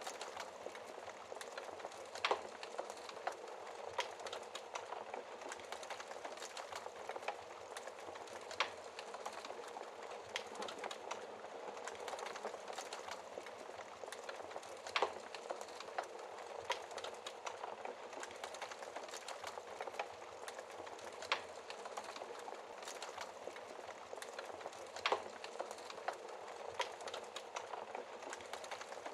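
Wood fire crackling in a fireplace: a steady soft hiss full of small crackles, with a sharper pop every few seconds.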